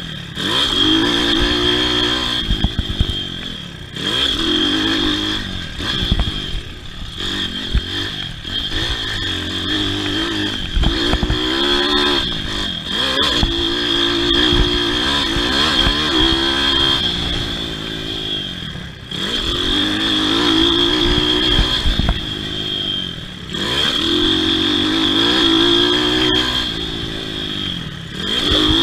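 Pit bike engine ridden hard on a motocross track, revving up and falling off again over and over every few seconds as the throttle is opened and closed, with a steady high whine above it.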